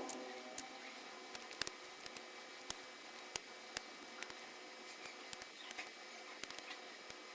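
Faint, irregular small clicks and taps, a few a second.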